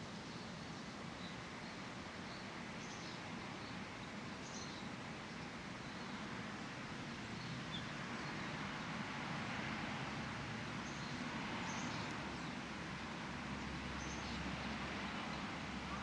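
Outdoor park ambience: a steady hiss of background noise with scattered short, high bird chirps, and a low hum that joins in a few seconds before the end.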